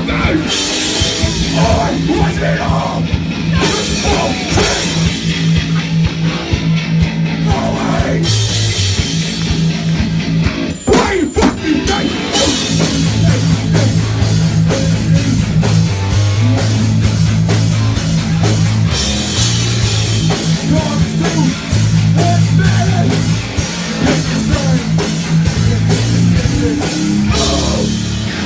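Hardcore punk band playing live: distorted electric guitars, bass and a drum kit, loud and fast. There is a brief stop about eleven seconds in before the band crashes back in.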